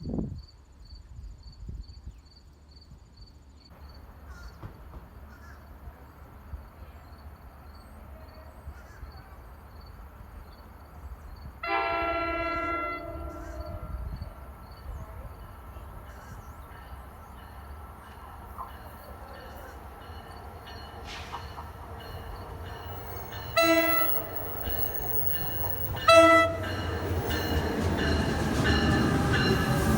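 Train horn on the Northeast Corridor: one long blast about midway, then two short blasts several seconds later, as an approaching train's rumble grows louder near the end.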